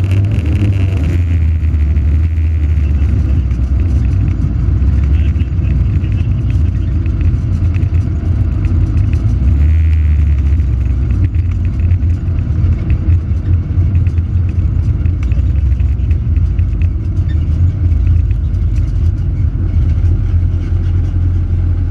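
Opel Corsa rally car's 1.6-litre four-cylinder engine running, heard from inside the stripped cabin, with a steady low rumble and scattered clicks as the car drives a dirt lane.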